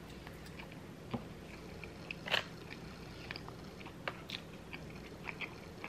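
Close-miked chewing of beef bulgogi fries: faint wet mouth smacks and small clicks, with a louder smack a little over two seconds in.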